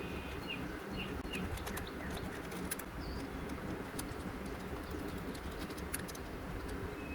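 Birds chirping a few times in the first half over a steady low hum, with scattered small clicks.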